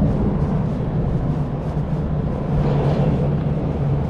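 Steady city street noise: traffic rumble with a constant low hum, picked up on an action camera's microphone.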